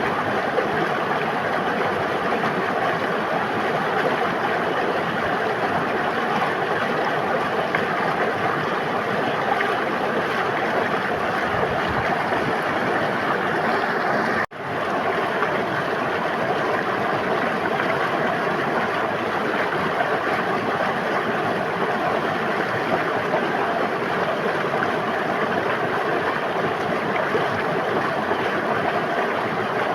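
River water flowing in a steady, even rush, which cuts out for a moment about halfway through and then resumes unchanged.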